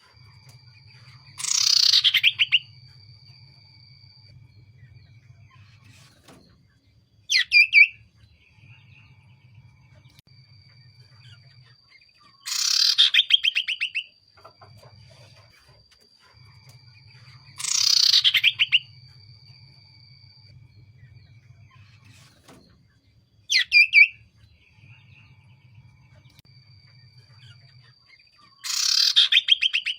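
Common iora (cipoh) calling repeatedly: a loud trilled call, just over a second long and dropping in pitch, comes four times, with two shorter sharp notes between them.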